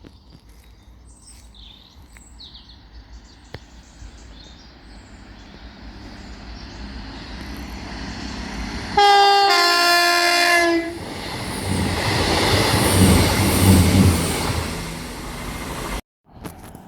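A train approaching and sounding its two-tone horn about halfway through, a higher note then a lower one, for about two seconds. It then passes close by with loud rumbling wheel and rail noise, which cuts off suddenly near the end.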